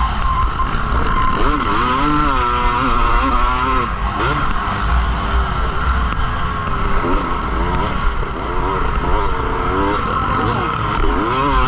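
Motocross motorcycle engines revving, their pitch rising and falling again and again, over a constant loud background.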